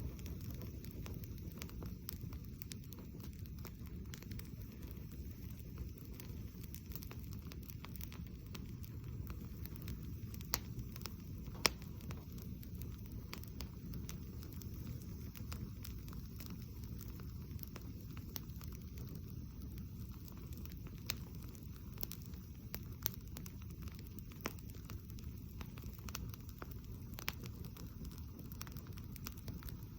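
Wood campfire burning on bare ground, crackling and popping irregularly over a low steady rumble, with one sharper pop a little over a third of the way in.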